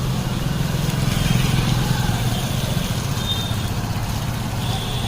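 Vehicle engines running nearby in street traffic, a steady low hum.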